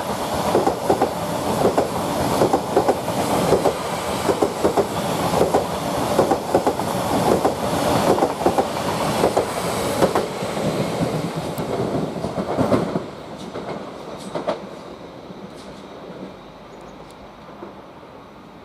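Greater Anglia Class 745 electric multiple unit passing through the station, its wheels clicking rhythmically over rail joints under a steady rumble. The noise drops off about 13 seconds in as the last coaches go by, leaving a few fading clicks.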